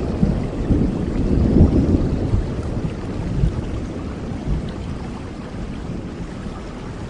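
Rolling thunder rumbling and slowly dying away over steady rainforest rain.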